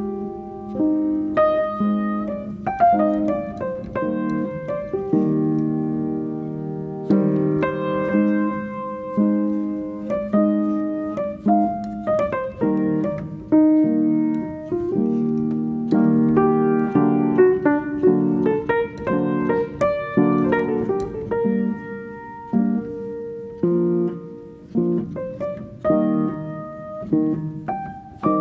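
Background piano music: a slow melody over held chords, notes struck and decaying.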